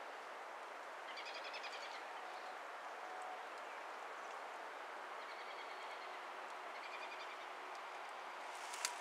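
A bird singing three short trilled phrases over a steady outdoor background hiss, with a few sharp clicks near the end.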